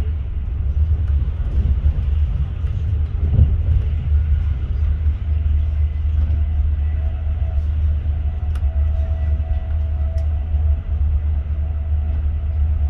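Class 43 High Speed Train running: a steady low rumble of the train on the move, with a faint steady whine joining about five seconds in.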